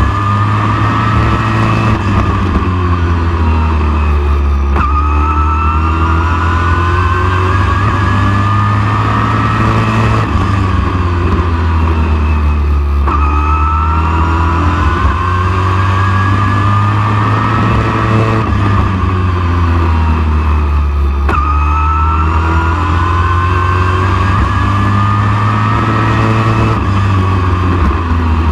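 Race truck engine under hard acceleration: its pitch climbs steadily for several seconds, then drops sharply as the throttle is lifted. The cycle repeats about every eight seconds, three times, like a truck lapping a short oval track.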